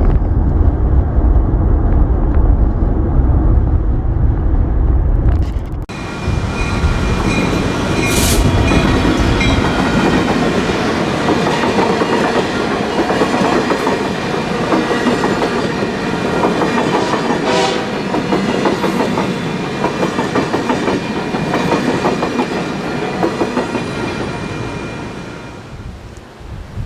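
Low road rumble for about six seconds, then the Union Pacific OCS passenger special passing: locomotive and passenger cars rolling by with wheels clacking on the rails, fading away near the end.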